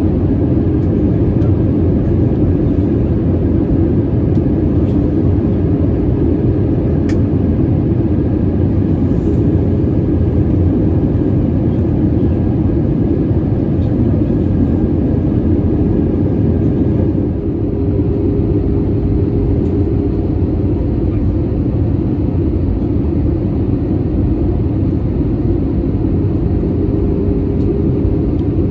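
Steady cabin roar of an Airbus A320-200 on approach, made of engine and airflow noise with a low hum. About two-thirds of the way through, the noise drops slightly and a faint high tone stops.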